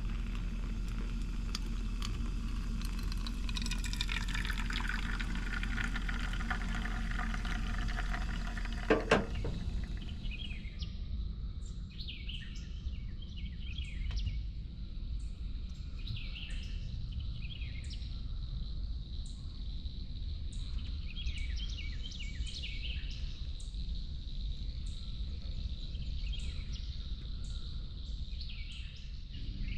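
A steady low hum from a running generator, cut off by a sharp click about nine seconds in. After the click, birds chirp repeatedly over a steady high-pitched buzz.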